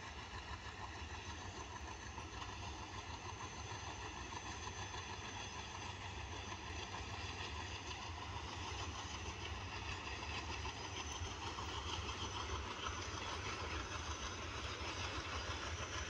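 Freight train passing at a distance: a steady rumble of its wagons rolling along the track, slowly growing louder.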